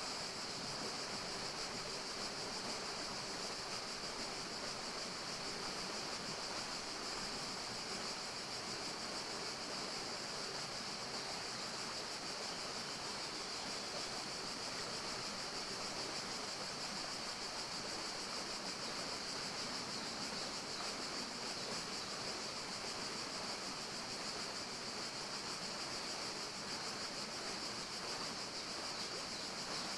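Steady forest ambience: an even, unbroken rushing hiss with a constant high-pitched band, unchanging throughout.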